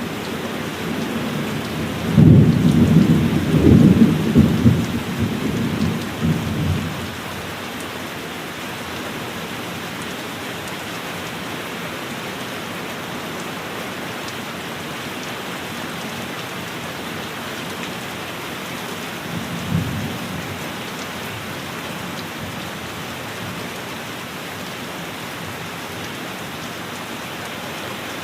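Heavy, steady rain with thunder: a loud thunderclap about two seconds in that rolls on and fades by about seven seconds, then a short, fainter rumble of thunder near twenty seconds.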